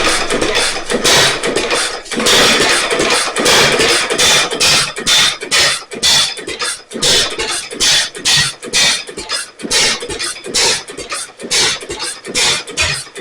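1927 Ottawa 4-5 HP single-cylinder stationary engine running on its repaired fuel needle valve, firing in sharp exhaust beats. The beats come close together at first, then space out into separate, regular firings with short gaps between them.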